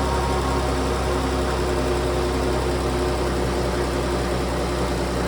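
3.6-litre engine running at a steady speed, its note unchanging throughout.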